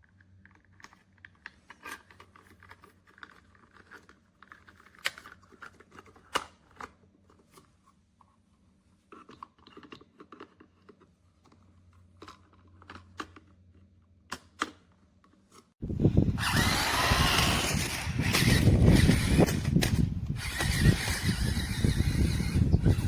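Small clicks and knocks of a plastic toy being handled, then, about 16 s in, a remote-controlled toy monster truck's electric motor and gearing start with a loud whirr that keeps running.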